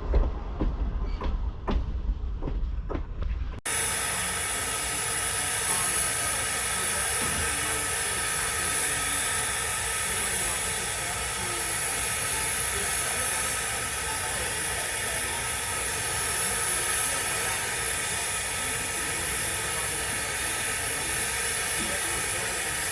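Train cars rolling past with a low rumble and regular clicks of wheels over rail joints, then, after a sudden cut about three and a half seconds in, a steady hiss of steam from steam locomotive 475 standing nearby.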